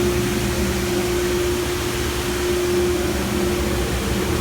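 A three-phase 37-inch wide belt sander with an 18 hp main motor and a dust collector running together with no wood going through yet: a steady drone with a clear hum and rushing air.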